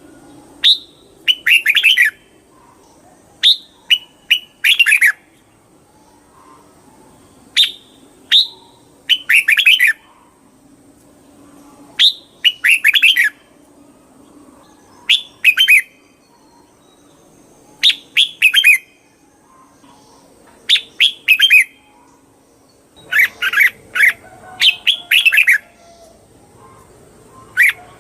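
Red-whiskered bulbul singing: short phrases of quick, falling whistled notes, repeated every few seconds.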